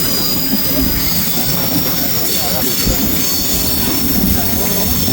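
A rail vehicle running: a steady rumble with high, steady wheel squeal above it.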